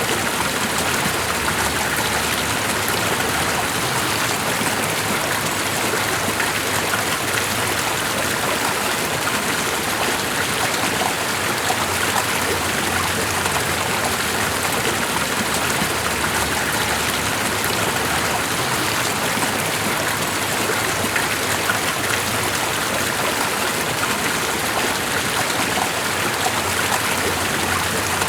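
Steady, unbroken rushing water, even in level throughout, with no music or voices.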